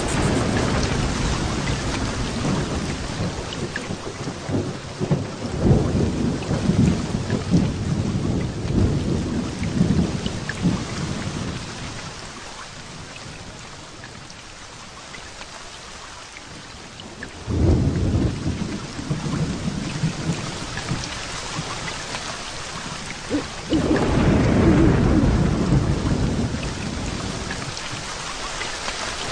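Heavy rain falling steadily, with rolling thunder rumbling through it: a long rumble early on, another starting suddenly about two thirds of the way through, and a loud swelling roll near the end.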